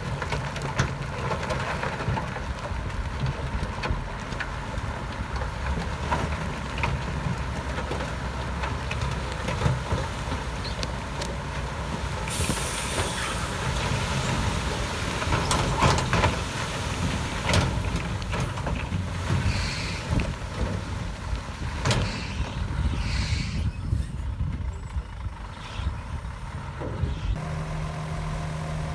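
Heavy diesel earthmoving machinery working, with many short metallic clanks and a burst of released-air hiss about twelve seconds in. Near the end the engine settles into a steady hum.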